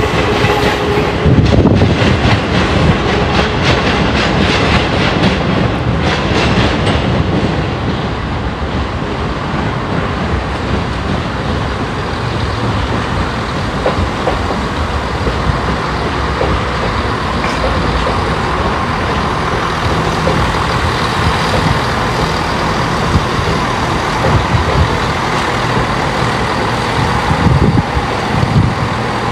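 Passenger train moving through the station, with a steady rumble. For about the first seven seconds the wheels clatter in quick clicks over the track, then the running noise evens out.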